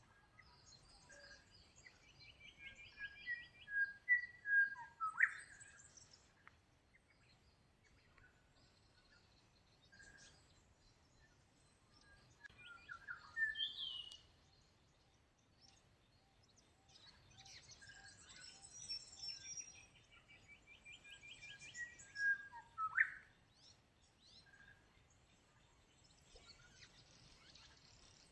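Birds singing: a song phrase of a quick trill, several short whistled notes and a sharp upward-sweeping note, given near the start and again in the second half, with a shorter burst of song in between, over faint background noise.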